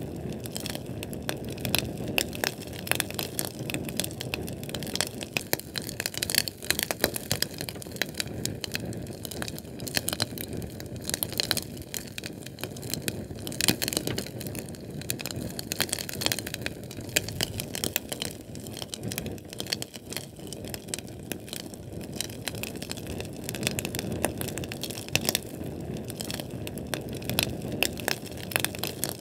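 Fire burning with dense, irregular crackling and snapping over a steady low rush of flame.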